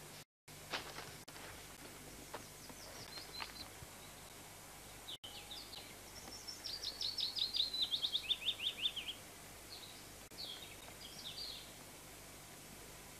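A songbird singing in woodland: a few short high chirps, then about six and a half seconds in a quick run of notes that descends in pitch over about two and a half seconds, followed by a few more brief phrases, over a steady background hiss.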